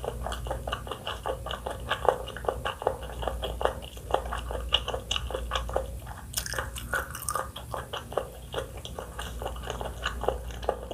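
Close-miked chewing and biting of food, with rapid crisp clicks and crunches several times a second. A sharper, hissier crunch comes a little past the middle.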